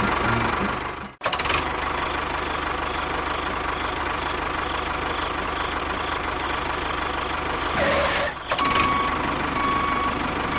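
A small engine running steadily. It cuts out abruptly about a second in and comes back straight away.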